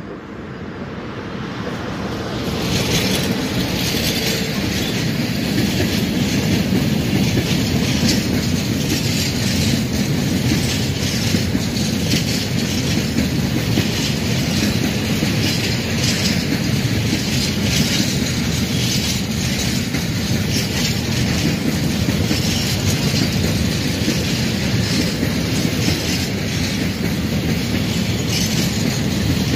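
Freight train passing close by: an electric locomotive approaching and drawing level, then a long string of open gondola wagons rolling past. It grows louder over the first few seconds, then holds a steady rumble with the clickety-clack of wheels over the rail joints.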